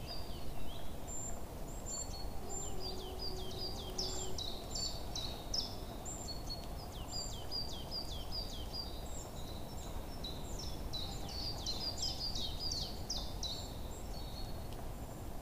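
Birds chirping: many short, high calls that sweep downward, repeated rapidly and overlapping throughout, over a steady low background hiss.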